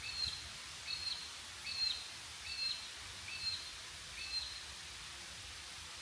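A bird calling six times, about one call every 0.8 seconds, then stopping: each call is a short lower note followed by a higher whistled note that drops at the end. A steady hiss runs underneath.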